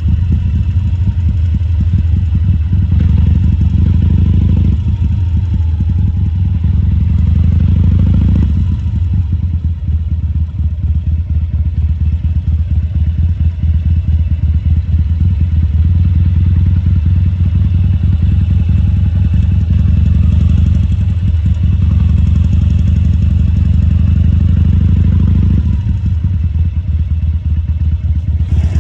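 2014 Harley-Davidson Sportster 1200 Custom's air-cooled V-twin running at low speed with a fast, steady pulse. It grows louder and fuller a few times as the throttle is opened a little, for stretches of about two to five seconds, then settles back.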